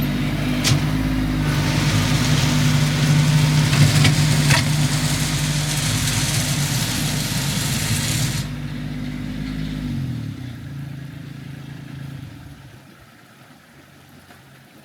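Kubota LX2610 compact tractor's three-cylinder diesel engine running steadily, with a rushing noise over it for several seconds. About ten seconds in the engine drops in pitch and fades away.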